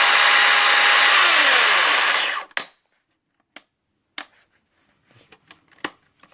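Brücke 36-volt battery chainsaw running unloaded at full speed, a steady motor whine with chain noise, then winding down in pitch and stopping about two and a half seconds in. A few sharp clicks and knocks follow.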